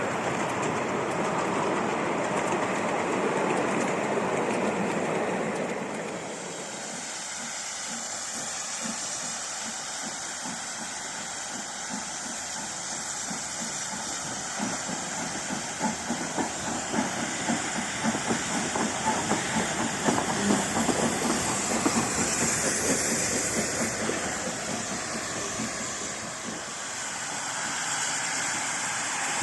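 Steam-hauled train passing, with steam hissing and the wheels clattering over the rail joints. A rushing noise dominates the first few seconds, then dense rapid clicks grow louder through the middle.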